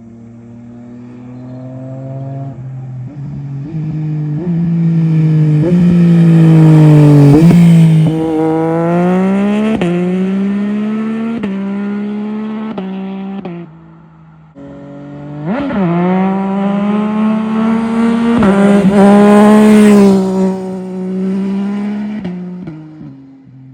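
Yamaha Tracer 9 GT+ three-cylinder engine through a full Akrapovic race exhaust with the baffle out, making two loud flybys. On each pass the bike accelerates hard, its pitch climbing in steps through the upshifts, then falls away.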